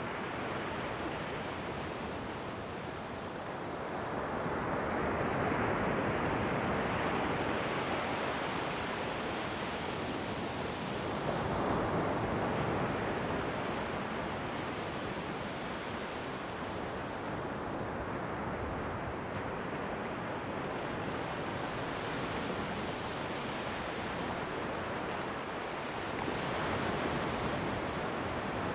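Ocean waves breaking and washing up on a shore: a steady rush of surf that rises and falls in slow surges, with louder waves breaking a few seconds in, around the middle, and near the end.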